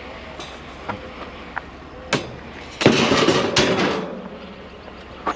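Metal clanks and knocks: a sharp knock about two seconds in, then about a second of loud clattering and banging, as scrap metal is grabbed and handled at the truck.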